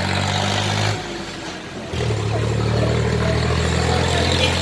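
Motor vehicle engine running at low revs. It drops away about a second in and picks up again, steadier and louder, about two seconds in.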